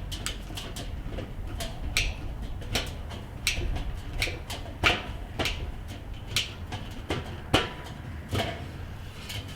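Irregular sharp clicks and knocks of a screwdriver and screw hardware as a plastic handle is screwed onto a steel kettle grill lid, with two louder knocks about five and seven and a half seconds in.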